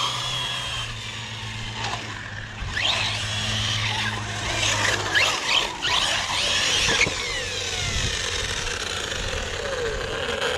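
Electric RC car being driven: its motor whine rises sharply with several bursts of throttle and then falls away in a long glide as it coasts, over a wash of tire noise on the pavement.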